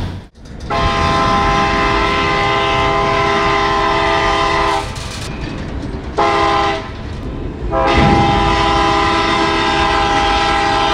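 Train air horn sounding a chord of several steady tones in three blasts: a long one of about four seconds, a short one, then another long one.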